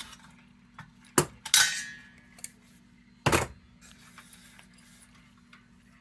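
Sheet-metal parts of a Perfection kerosene heater knocking and clinking as they are handled and set down. There is a sharp knock about a second in, then a clatter with a short metallic ring, and another hard knock a little past three seconds.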